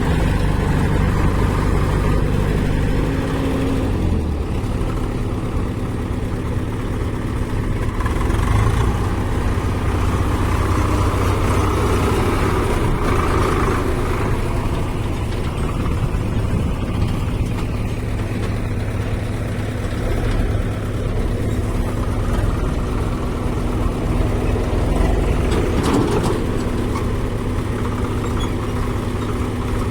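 Heavy diesel engine running steadily, its note shifting about 4 s in.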